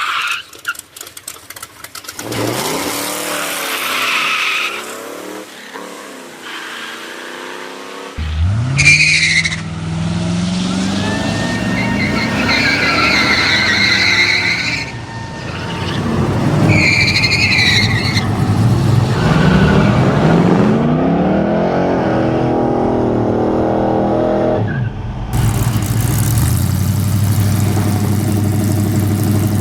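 Muscle car engines revving hard, with tires squealing. About eight seconds in an engine comes in loudly and climbs in pitch several times as it pulls through the gears, and near the end a steady engine drone carries on.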